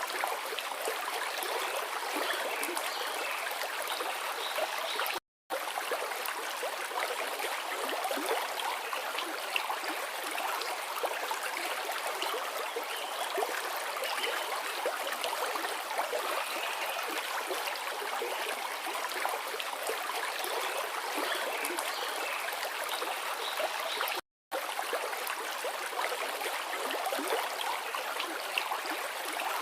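A forest river flowing: a steady, even rush of water. It cuts out to silence for a split second twice, about five seconds in and again about twenty-four seconds in.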